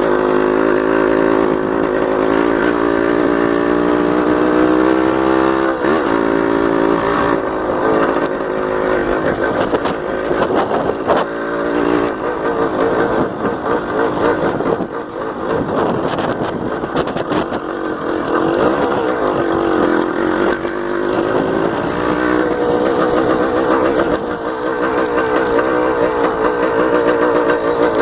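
Yamaha DT 180's two-stroke single-cylinder engine running under way. Its pitch climbs over the first few seconds, drops suddenly at a gear change about six seconds in, and then rises and falls with the throttle.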